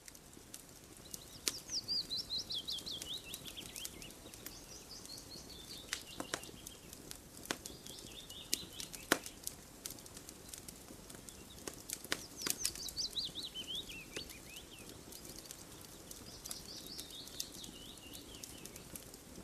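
Campfire crackling with scattered sharp pops, while a bird sings a run of quick notes that falls in pitch, repeated about five times.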